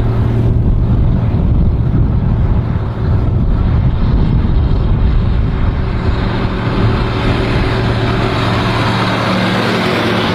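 Diesel engine of a White Field Boss 4-270 four-wheel-drive tractor running steadily with a strong low hum; from about six seconds in the sound grows harsher.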